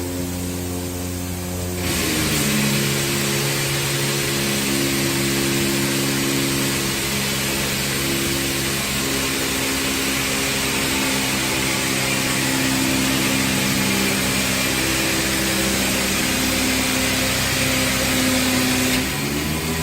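A tank-washing machine's motor running with a steady hum; about two seconds in a loud hiss starts and the motor's pitch drops as it takes load, then about a second before the end the hiss cuts off and the motor's pitch rises back.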